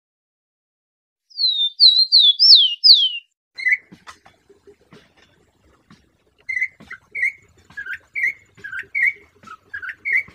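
Rufous-collared sparrow (tico-tico) singing one short phrase of clear downslurred whistles, starting about a second in. From about the middle on, a campo troupial (corrupião) gives a series of short whistled notes, roughly two a second, with faint clicks underneath.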